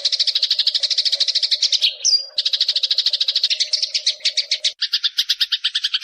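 Eurasian tree sparrow giving a long, rapid chattering rattle of many short notes a second. It breaks off briefly about two seconds in, then resumes, and shifts to a lower, coarser rattle near the end.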